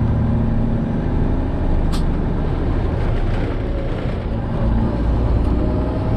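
Freightliner Classic XL semi truck's diesel engine running steadily, heard inside the cab while the truck moves slowly. There is a single sharp click about two seconds in.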